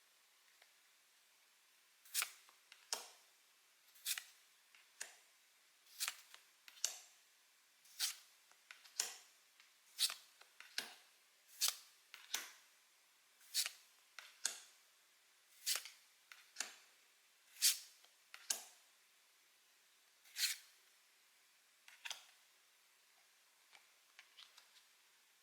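Pokémon trading cards being handled and set down one at a time: about twenty crisp snaps, roughly one a second, stopping a few seconds before the end.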